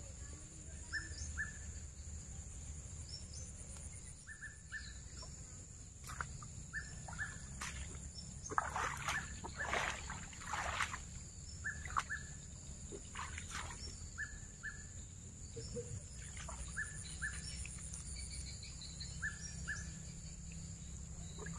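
A bird repeats a short two-note chirp every two to three seconds, over a steady high whine. Around the middle come several splashing, squelching steps of rubber boots in shallow muddy floodwater.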